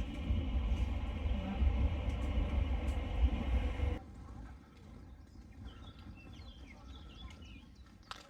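Train running with a steady low rumble, which cuts off suddenly about four seconds in. It gives way to quiet outdoor ambience with faint bird chirps and a single click near the end.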